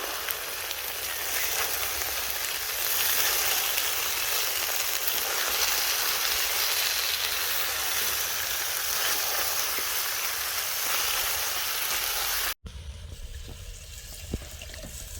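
Food frying in oil in a kazan, a steady sizzle. It cuts off abruptly about twelve and a half seconds in, leaving a quieter background with one sharp tick near the end.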